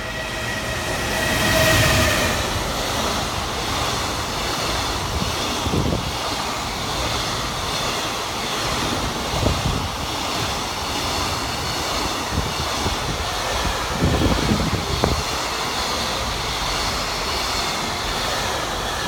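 JR Freight EF210 electric locomotive passing at speed, loudest about two seconds in with a brief high whine, followed by a long string of container flatcars rolling by with a steady rumble of wheels on rail and several sharper knocks.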